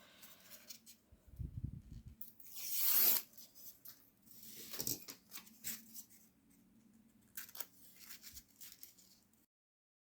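Paper tearing in several short strokes with small handling clicks, the loudest stroke about three seconds in.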